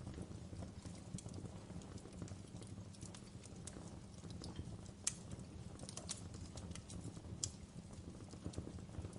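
Wood log fire crackling in a fireplace: irregular sharp pops and snaps, the loudest about five seconds in, over a low steady rumble of the burning.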